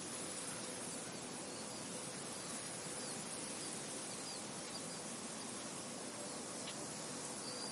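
Steady wind blowing through a field, an even hiss, with a few faint, short, high bird chirps in the middle and near the end.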